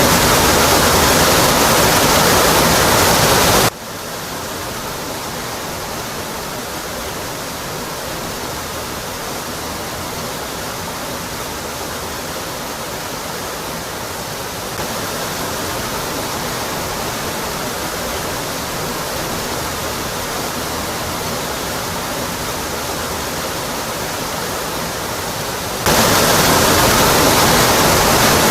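Waterfall pouring steadily, a dense even rush of falling water. About four seconds in it drops suddenly to a quieter, thinner rush with less low rumble, then jumps back to the full, louder roar near the end.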